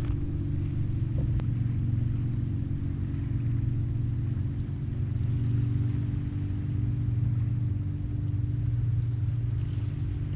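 Steady low rumble of gentle ocean surf at low tide, with a faint regular ticking high above it.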